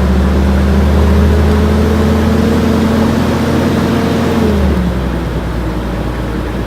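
Safari tour truck's engine running while under way, its pitch creeping up slightly and then dropping about four and a half seconds in as it eases off.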